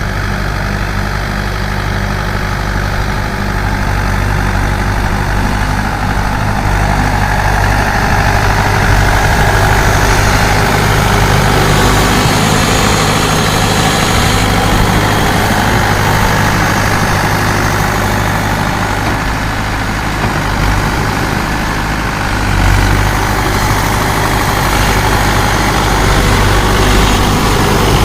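The diesel engine of an old Mahindra 595 Turbo tractor running steadily, with a deep, even hum, getting louder and noisier from about eight seconds in.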